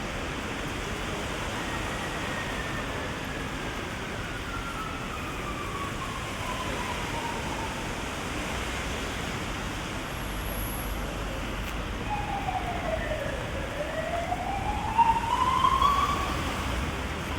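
Heavy rain hissing steadily while an emergency-vehicle siren wails slowly, falling in pitch over several seconds, then sounding again near the end with a dip and a slow rise.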